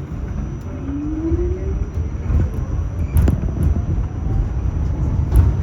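R46 subway car running after leaving a station: a steady low rumble with a rising whine from the motors about a second in as it picks up speed, and sharp knocks from the wheels passing over rail joints, loudest about three seconds in and near the end.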